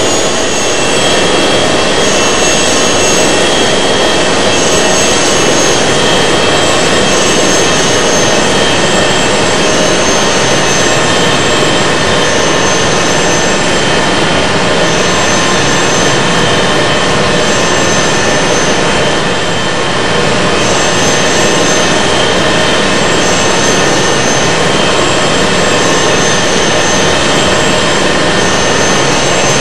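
Airbus A380 jet engines running, heard on board as a steady, loud rush of noise with thin high whining tones that fade in and out. The loudness dips briefly about two-thirds of the way through.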